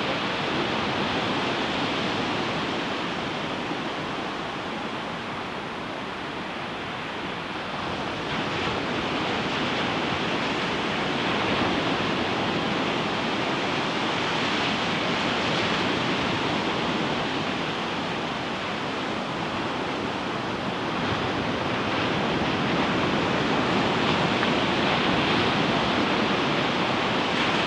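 Ocean waves breaking on a beach: a continuous wash of surf that eases off for a few seconds and swells again about eight seconds in.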